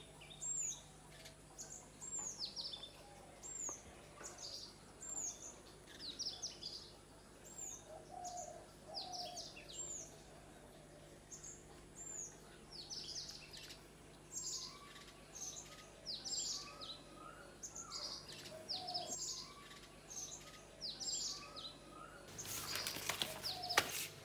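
Birds chirping: short, high, quickly falling chirps repeated about once a second, with some lower calls among them. A brief rustling noise comes near the end.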